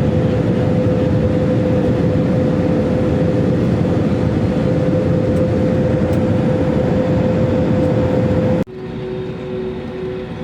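Airliner cabin noise: the engines' steady drone with a constant hum. About three-quarters of the way through it cuts off abruptly to a quieter drone with a lower, faintly pulsing hum.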